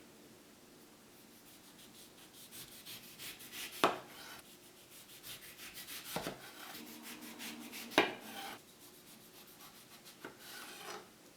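Rapid, fine scraping or rubbing strokes, broken by three sharp knocks about four, six and eight seconds in.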